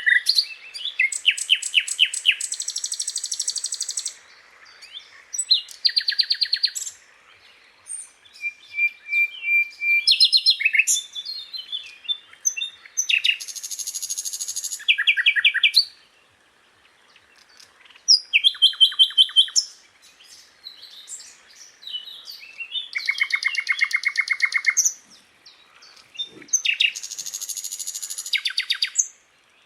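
Sikatan londo flycatcher singing: a string of high, fast phrases of rapidly repeated notes and buzzy trills, each a second or two long, with brief pauses between them. This is a masteran recording, song played to tutor caged songbirds.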